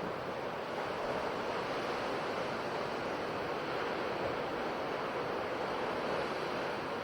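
Sea surf washing on a shore in a continuous, even rush without distinct separate crashes.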